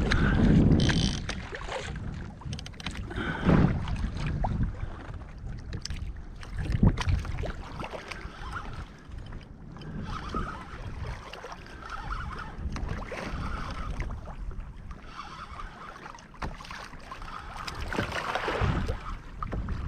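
Wind buffeting the microphone and water sloshing against a kayak's hull, with a few short knocks from gear being handled.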